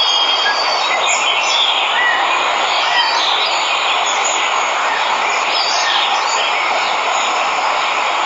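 Steady rush of a waterfall, with birds chirping in short scattered calls over it.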